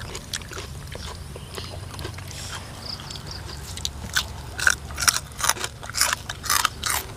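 Close-up crunching and chewing of crisp food: soft chewing at first, then from about four seconds in a quick run of sharp crunches, roughly two or three a second.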